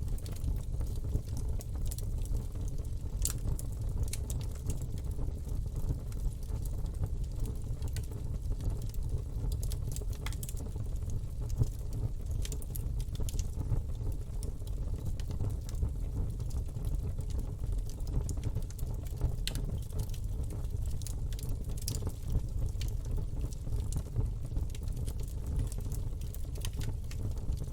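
Campfire burning: a steady low rumble of flames with frequent, irregular sharp crackles and pops from the burning wood.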